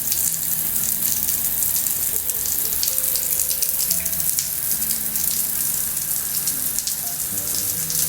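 Steady rushing water noise with a fine crackle throughout.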